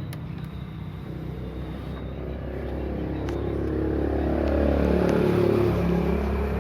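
A motor vehicle's engine running, its drone growing louder over the first few seconds to a peak and then easing off, as if the vehicle is passing close by.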